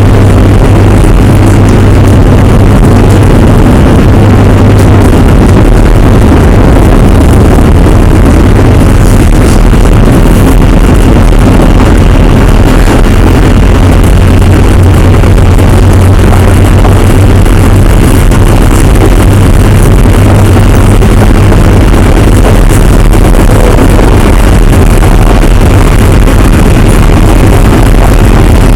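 Interior running sound of a JR Hokkaido 733 series electric train's motor car, with Hitachi IGBT-VVVF traction equipment and N-MT731 motors. The train runs steadily at line speed with a loud, even low rumble of wheels on rail and running gear.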